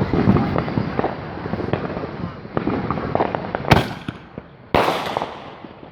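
Fireworks going off: a steady patter of sharp crackling pops, with two loud bangs about a second apart past the middle, the second trailing off in a rumble.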